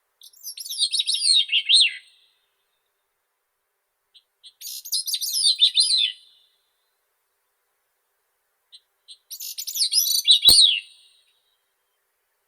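Grey-cheeked thrush singing: three songs, each a quick run of thin, high, wavering notes that slides downward and ends abruptly, about four seconds apart. A faint click falls near the end of the last song.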